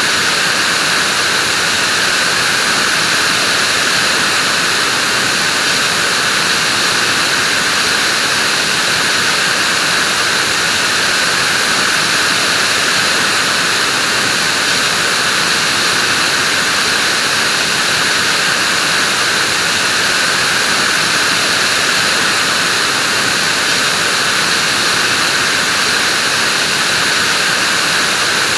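Vacuum cleaner motor running steadily: an even, airy whine that holds the same pitch and level throughout.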